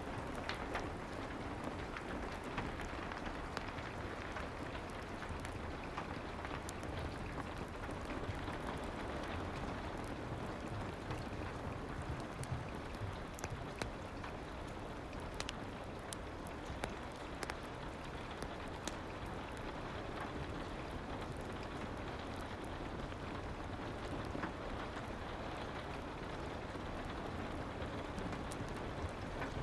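Steady soft rain, a constant hiss of falling drops, mixed with scattered small crackles and pops from a fireplace.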